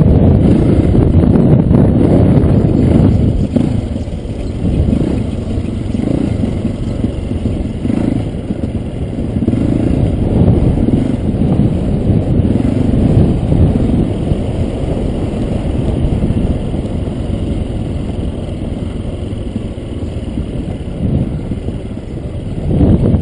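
Dirt bike engine running and revving over rough ground, rising and falling in bursts.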